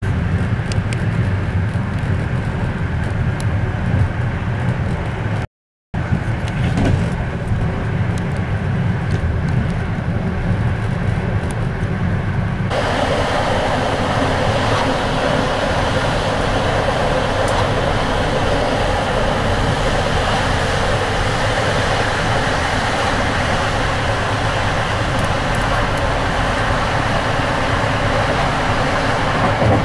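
Steady running noise inside the compartment of a moving Polish PKP passenger train, a low rumble. The sound drops out for half a second about five and a half seconds in, and about thirteen seconds in it changes to a brighter, hissier rush.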